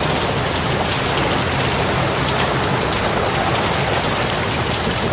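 Heavy rain falling steadily onto floodwater: a dense, even hiss of the downpour with small splashes in it.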